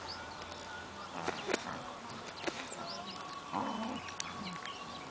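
Birds chirping and calling all through, with a few sharp clicks and a short, lower animal call about three and a half seconds in.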